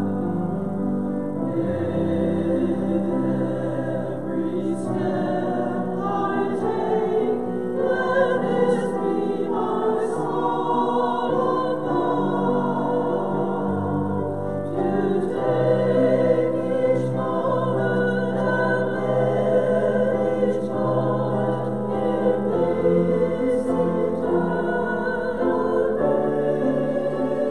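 Choir singing a slow sacred anthem or hymn in long, held chords.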